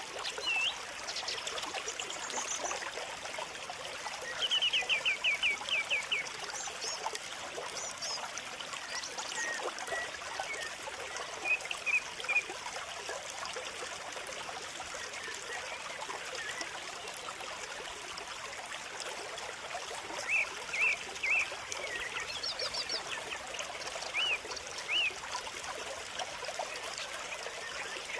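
Small birds chirping, with short calls and a quick trill of repeated notes, over a steady trickle of running water.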